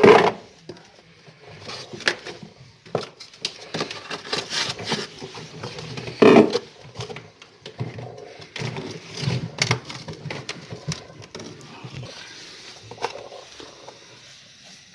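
Irregular clicks, knocks and clatter of hands working on a double-door refrigerator's parts, with a loud knock at the start and another about six seconds in.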